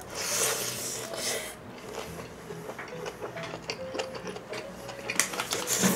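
Close-miked chewing of a mouthful of leaf-wrapped dak-galbi (spicy stir-fried chicken in a bomdong and perilla-leaf wrap): a louder crisp rustle of leaf in the first second and a half as the wrap goes in, then a run of small wet chewing clicks.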